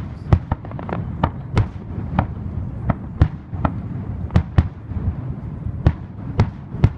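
Fireworks going off: a rapid, irregular string of sharp bangs and cracks, about two to three a second, over a steady low rumble.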